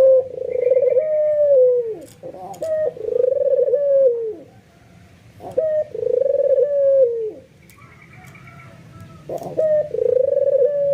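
Albino white puter (ringneck) dove giving its bowing display coo four times. Each long coo opens with a short clipped note and drops away at the end, and they repeat about every two and a half to three seconds.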